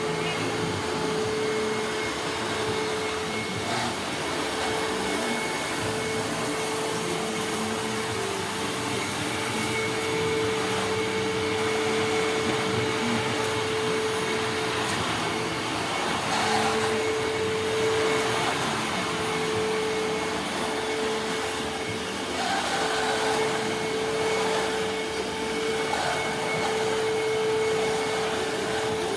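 Upright vacuum cleaner running steadily: a constant motor whine under the rush of air, swelling slightly in level now and then.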